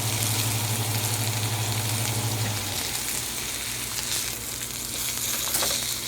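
Chicken breasts sizzling in an oiled grill pan: a steady frying hiss with small crackles. Under it runs a low hum that drops in level a little under three seconds in.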